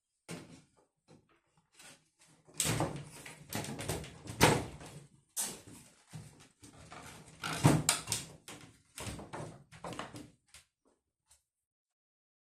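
Irregular knocks, clunks and rattles of hard objects being handled, loudest about four and a half and eight seconds in, stopping a couple of seconds before the end.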